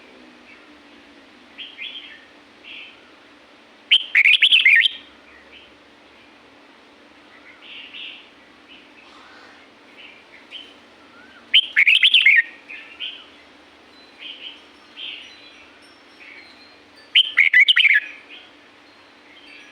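Red-whiskered bulbul singing: three loud, short warbled phrases, each under a second and several seconds apart, with softer chirps in between.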